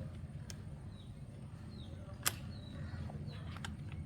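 Faint outdoor ambience: a steady low rumble with a few short, falling high chirps, broken by a sharp click a little over two seconds in and a fainter click near the start.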